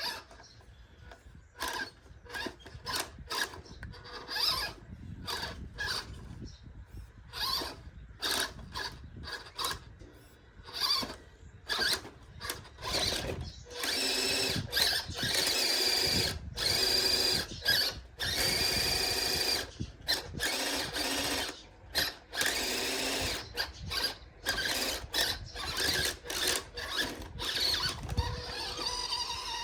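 RC off-road truck's motor and drivetrain whining in many short throttle bursts, with several longer pulls around the middle.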